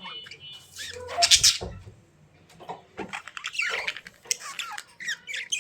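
A bird calling in short chirps and harsh squawks, the loudest squawk a little over a second in.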